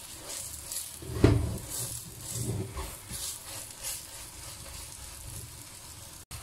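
Egg-and-scallion pancake sizzling in hot oil in a wok while a wooden spatula scrapes and pushes it around the pan, with a sharp knock a little over a second in.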